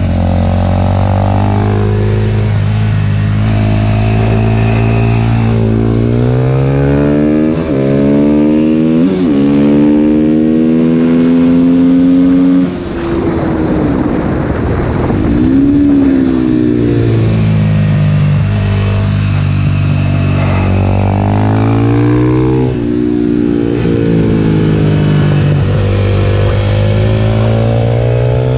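Husqvarna FS450 supermoto's single-cylinder four-stroke engine, heard onboard, accelerating hard through the gears: the note climbs, then drops at each upshift. About halfway through the throttle closes for a few seconds and the sound turns rough and uneven, then the engine pulls up through the gears again.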